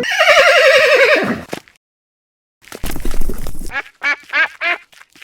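Horse whinnying: a loud wavering neigh about a second and a half long that falls in pitch. After a short pause comes a breathy, noisy blow of about a second, then three short calls.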